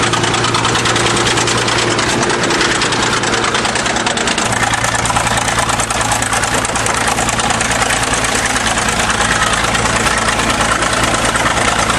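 1953 International TD20 crawler bulldozer's diesel engine idling steadily with a fast, even pulse.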